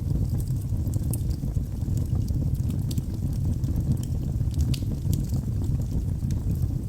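Wood fire burning in a fireplace: a steady low rumble of the flames, with scattered small crackles and pops from the logs.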